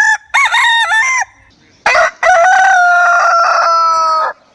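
Rooster crowing: a short, wavering opening phrase, a brief pause, then one long drawn-out final note that stops cleanly.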